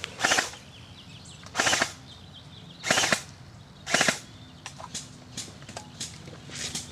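Airsoft guns firing four short rapid-fire bursts, a second or so apart, then a few fainter single snaps.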